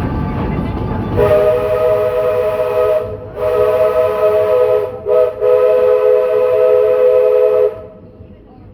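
Steam locomotive's chime whistle sounding a multi-note chord in a series of blasts: two long blasts, a short one and a final long one, the long-long-short-long pattern of a crossing signal, over the low rumble of the moving train.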